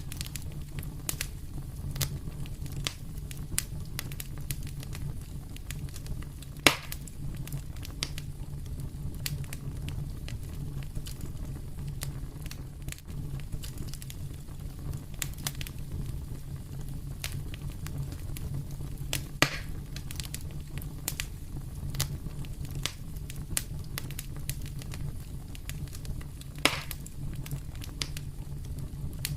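Wood fire crackling in a fireplace: a steady low rumble of burning with frequent small snaps and three louder pops, at about a quarter, two thirds and nine tenths of the way through.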